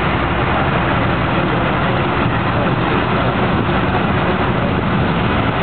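A B-17G's four Wright R-1820 Cyclone nine-cylinder radial engines running at low taxiing power, a loud, steady drone.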